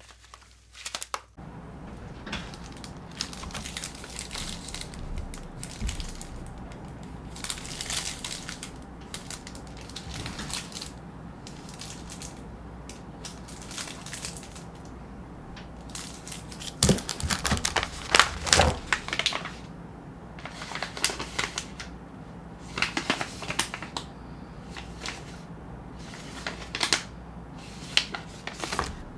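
Plastic candy and chocolate wrappers being crinkled and torn open: spells of irregular crackling and clicking, loudest a little past halfway, over a steady low hum.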